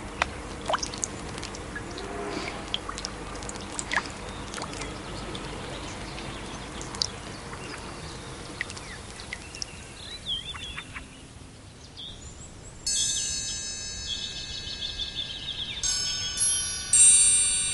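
Outdoor ambience with scattered short bird chirps. About thirteen seconds in, music of high, ringing chime-like tones begins and changes notes a few times near the end.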